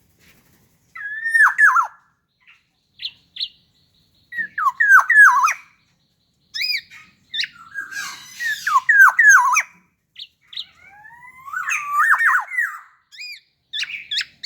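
Black-naped oriole (kepodang) singing loud, varied whistled phrases of looping, falling notes, in bursts separated by short pauses, with a harsh rasping stretch about halfway through.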